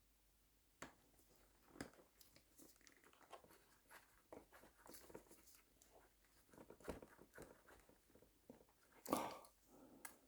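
Faint, scattered small clicks and light handling noises of hands working at motorcycle wiring connectors and plastic parts, with one louder short rustle about nine seconds in.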